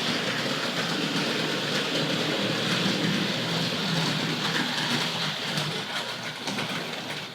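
Hornby Dublo GWR 0-6-2 tank locomotive running with its train on three-rail track. The small electric motor whirrs and the wheels make a steady patter of clicks and rattles over the rail joints and points, growing fainter near the end.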